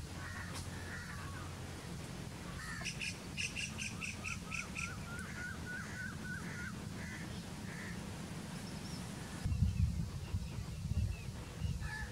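Birds calling outdoors: a few harsh calls at the start, then a quick run of repeated notes and a row of short rising chirps, about five a second. Under them is a steady low rumble, like wind on the microphone, which turns gusty in the last few seconds.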